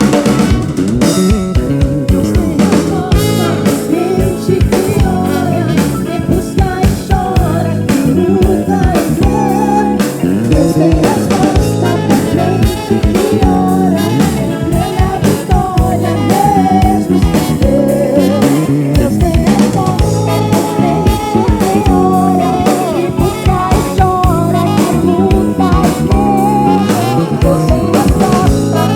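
A live band playing soul-style gospel music: a drum kit keeping a steady beat under bass, guitars and keyboards, with a wavering lead melody line on top.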